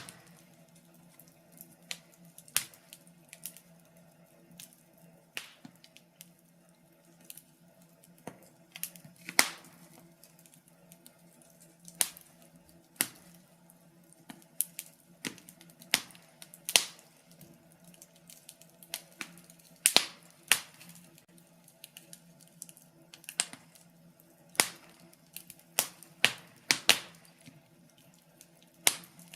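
Wood fire crackling: sharp, irregular pops and snaps of burning logs, about one a second, some much louder than others, over a faint low hum.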